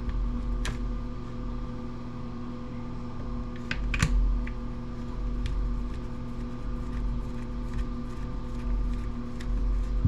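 Scattered small clicks and taps of a driver working at a screw hidden down inside a wood planer's housing, with one sharper click about four seconds in, over a steady hum.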